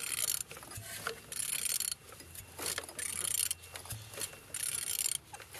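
Ratchet wrench clicking in about four strokes as a used engine is turned over by hand. It turns freely.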